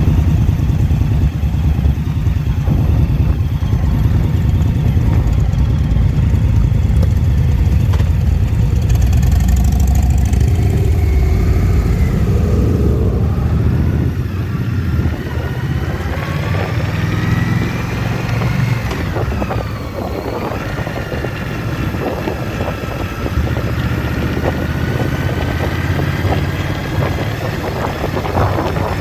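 Indian V-twin motorcycle engine running while riding, a heavy low rumble with the revs rising and falling in the middle part as the bike accelerates and shifts.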